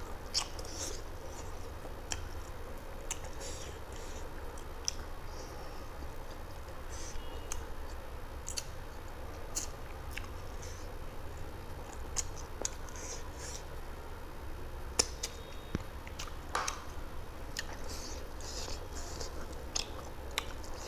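Close-miked eating sounds: a man chewing mouthfuls of rice and spicy chicken curry, with irregular wet smacks and clicks of the lips and mouth.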